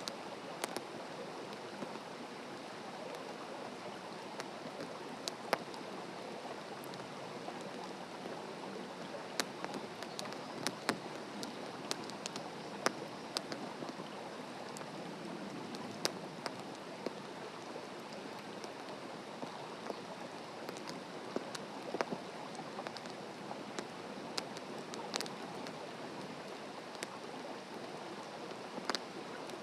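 Wood fire crackling in a fire stand: a steady hiss with sharp, irregular pops and snaps.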